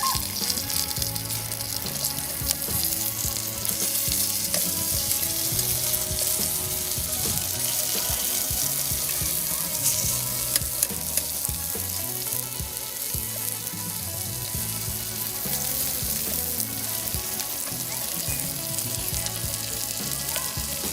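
Thick-cut home-made bacon frying in its own fat in a deep pot: a steady sizzle with scattered sharp pops.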